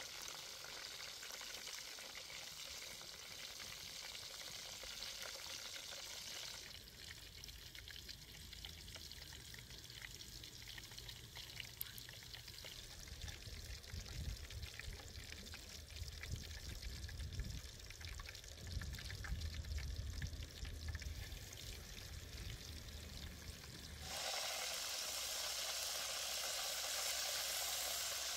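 Food sizzling as it cooks, a steady hiss that changes abruptly about seven seconds in and again near the end, where it is loudest. In between the sizzle is quieter, with scattered clicks and low rumbles.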